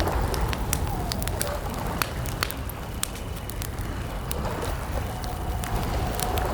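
Campfire burning, with frequent sharp crackles and pops of the wood over a steady low rumble.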